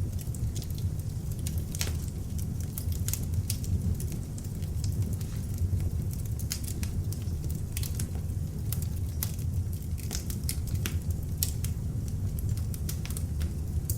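Beech logs burning in an open fireplace: a steady low rush of flame with frequent sharp crackles and pops at irregular intervals.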